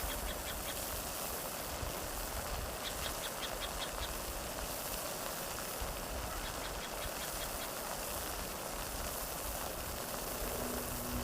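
Outdoor nature ambience: a steady rushing noise, with three short trains of rapid high-pitched chirps, each about a second long, from a small animal.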